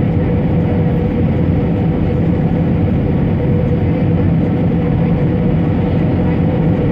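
Steady roar of an Airbus A320's engines and airflow heard inside the passenger cabin during landing, with a constant humming tone running through it.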